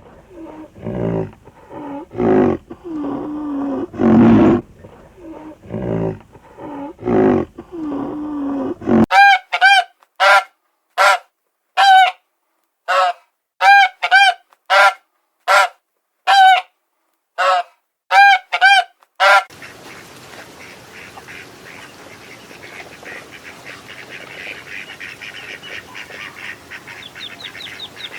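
Animal calls in three parts. First come deep, repeated calls for about nine seconds. Then a run of short, sharp goose-like honks, nearly two a second, which fit flamingos. In the last third the honks give way to a steady rough background with faint rapid chatter.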